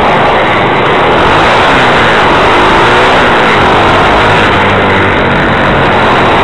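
Pit bike engine running loud and close over a dense rush of noise, its pitch sliding up and down a few times as the throttle is worked.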